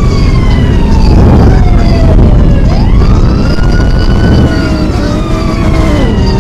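Emergency vehicle siren in a wail pattern: its pitch sinks slowly, sweeps sharply back up about three seconds in, then sinks again, over a heavy rumble of traffic.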